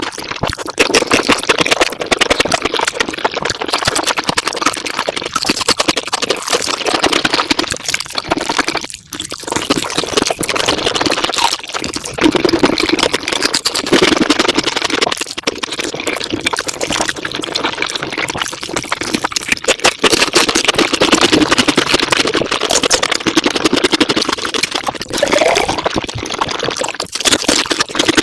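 Mukbang eating and chewing sounds played back at five times speed, running together into a fast, continuous crackle, with a brief drop about nine seconds in.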